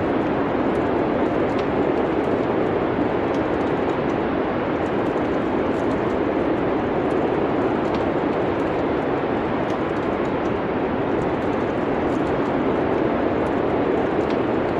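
Fireplace fire crackling, with frequent small pops and snaps over a steady, even rushing noise.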